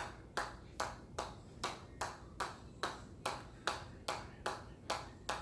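A hammer striking metal in a steady rhythm, about two and a half strikes a second, each blow ringing briefly.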